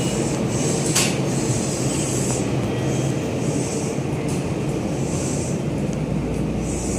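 Odakyu electric commuter train running at the station platform: a steady low rumble with recurring high hissing, and a sharp click about a second in.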